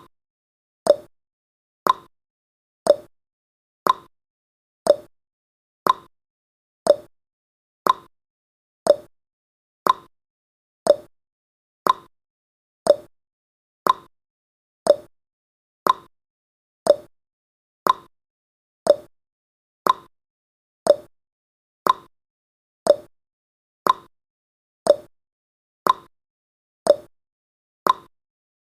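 Countdown timer's ticking sound effect: one short, crisp tick every second, evenly spaced.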